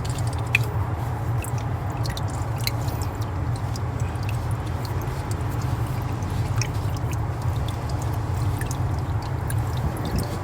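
Tubing cutter being turned round a 3/4-inch copper pipe, its sharp wheel scoring the copper with small scattered clicks, over a steady low hum.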